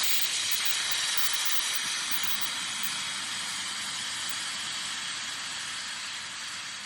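Steam hissing from a steam locomotive, a steady noise that slowly fades.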